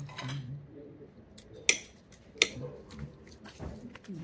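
Cutlery clicking against a plate during a meal: two sharp clicks about three-quarters of a second apart, with a few fainter ticks around them.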